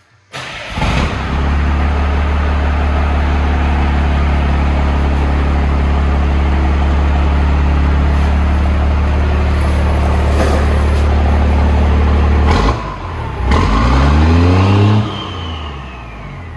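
12-valve Cummins inline-six diesel breathing through a 7-inch cab-back exhaust, starting about half a second in and settling into a steady, deep idle. Near the end it is revved once, the pitch rising and falling, with a high turbo whistle winding down after the rev.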